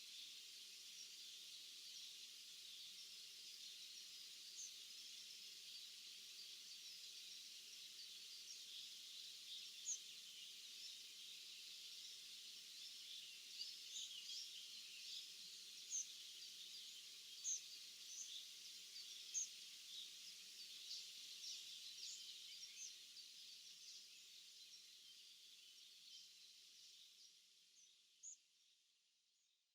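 Faint chorus of birds chirping in a summer field, many short high calls over a steady high hiss of distant song, fading out near the end.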